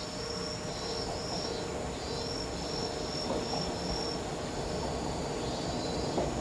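Insects trilling in short repeated phrases, over the low running noise of an approaching Moka 14 diesel railcar that grows slowly louder.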